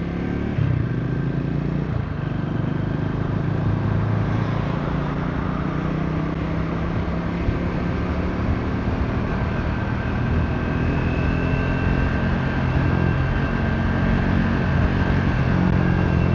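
Triumph Speed 400's single-cylinder engine running under way at a fairly steady pace, with wind rushing over the microphone.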